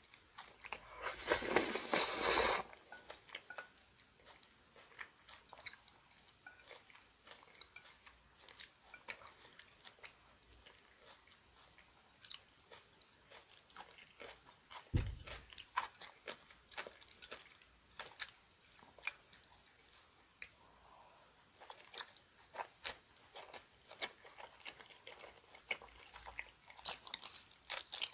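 Close-miked eating sounds: a person biting, chewing and crunching food, with many small wet mouth clicks. There is a loud, rough burst of crunching about a second in, a single low thump about halfway, and denser crunching near the end.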